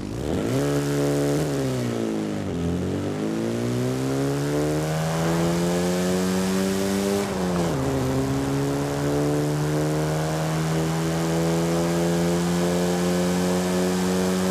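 1953 Morris Minor Series II Traveller's four-cylinder engine pulling away: the engine note rises, drops sharply at a gear change about two and a half seconds in, rises again and drops at a second upshift near the middle, then runs at a steady pitch.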